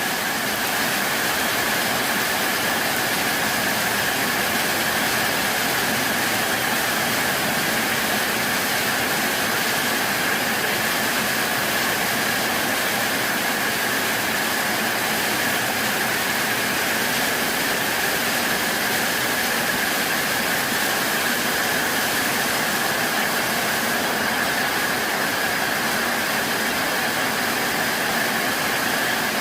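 Heavy tropical rainstorm, rain pouring down in a dense, even hiss that holds steady throughout.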